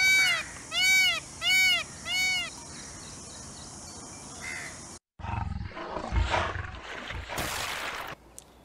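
Indian peacock calling four times in quick succession, loud wailing cries that rise and fall in pitch, all within the first few seconds. After a cut, a crocodile gives a low rumbling growl, then a breathy hiss that stops abruptly near the end.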